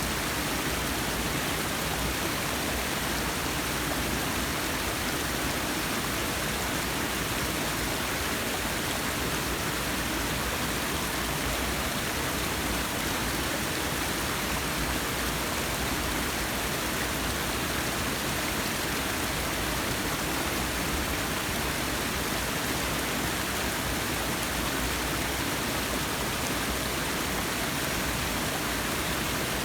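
Forest waterfall, a steady rush of falling water.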